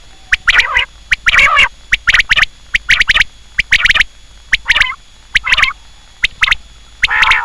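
Quail calling in a rapid run of short, harsh, rasping notes mixed with sharp clicking notes, several each second and stopping and starting irregularly.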